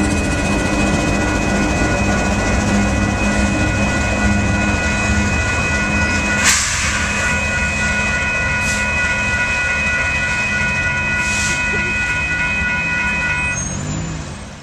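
Union Pacific diesel freight locomotives and a double-stack intermodal train rumbling slowly past, with steady high-pitched ringing tones over the rumble and one sharp knock about six and a half seconds in. The sound fades out near the end.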